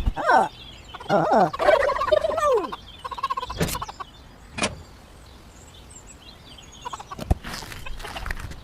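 A turkey gobbling: a short falling call at the start, then a rolling run of falling calls for about a second and a half. A few sharp knocks follow later.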